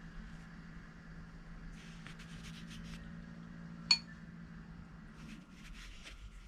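A paintbrush brushing and rubbing softly on paper in short strokes, with a single sharp, briefly ringing clink about four seconds in, like a brush tapped against a water jar. A low steady hum sits underneath.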